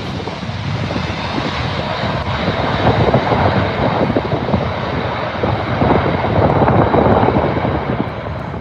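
Twin-engine Airbus A330-300 jet airliner passing on its landing approach: loud jet engine noise with a steady high whine, gusting on the microphone.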